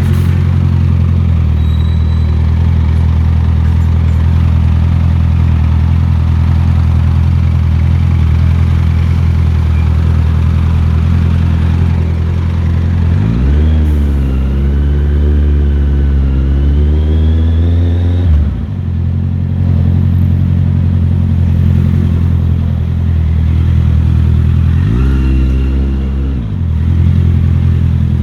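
Motorcycle engine running steadily on the move, revving up twice: once about halfway through, held for several seconds before dropping back, and again briefly near the end.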